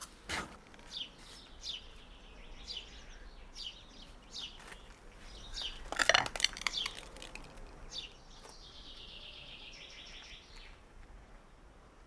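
Birds chirping: a series of short, sharp downward chirps about every two-thirds of a second, a louder brief burst about six seconds in, and a fast trill from about eight and a half to ten and a half seconds in.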